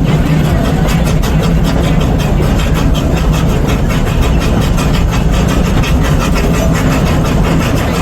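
Narrow-gauge amusement-park train (ELI 4-4-0 locomotive) running, a loud, steady rumble with a low hum and a fast, even clatter.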